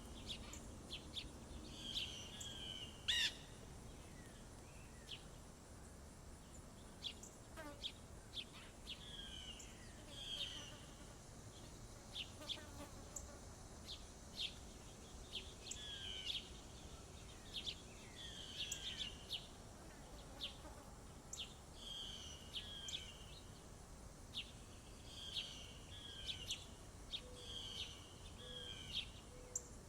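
Small songbirds at a feeder chirping and calling, short high chirps and down-slurred notes coming every second or so over a faint outdoor background, with one louder sharp note about three seconds in.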